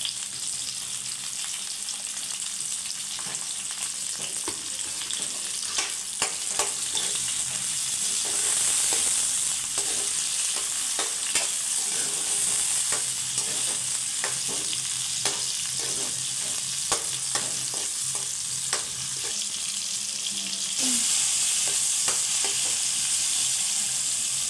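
Onions, green chillies and tomatoes sizzling in hot oil in a kadai, with a steel ladle clicking and scraping against the pan as they are stirred. The sizzle swells about eight seconds in and again near the end.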